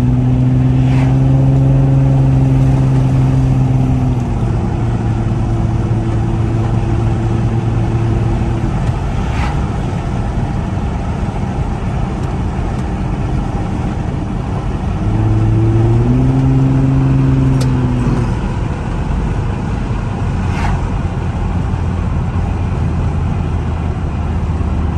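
2007 Infiniti G35 Coupe's 3.5-litre V6 through a Motordyne 3-inch dual X-pipe exhaust, with tyre and road noise beneath it. It runs a steady low drone while cruising, and the pitch drops about four seconds in. About fifteen seconds in the revs rise briefly into a low growl under modest acceleration, hold for a few seconds, then ease off.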